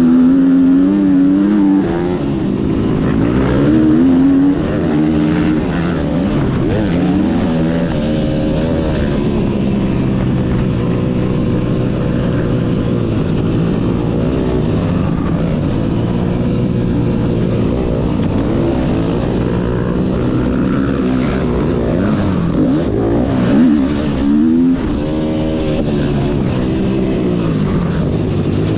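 Motocross bike engine revving hard and falling back again and again, its pitch rising and dropping every few seconds as the throttle is opened and closed around the track.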